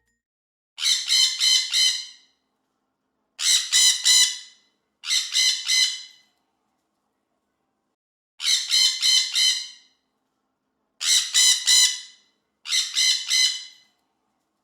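Parrot squawking in six harsh bouts, each a quick run of three or four squawks, with silence between them.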